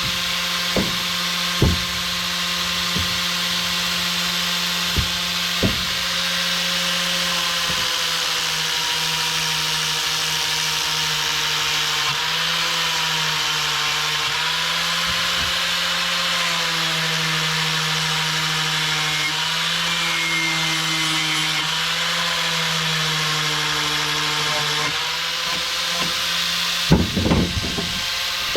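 Power grinder running steadily against sheet metal, its pitch sagging and recovering a little as it is pressed into the work, cleaning the panel ready for welding. A few sharp clatters of the metal near the end.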